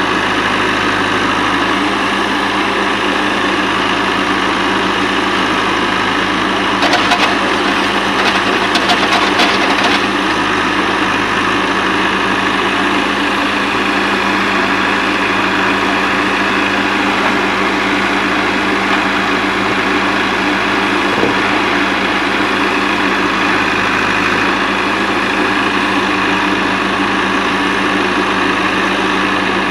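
Heavy diesel engine running steadily, with a burst of clattering knocks from about 7 to 10 seconds in.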